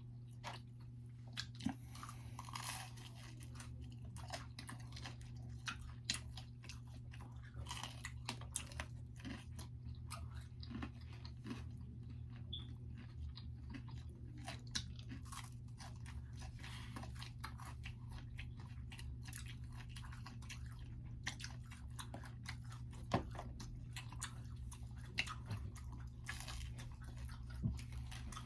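Close-miked chewing and biting of pizza, with crunching of the crust and many short wet mouth clicks, over a steady low hum.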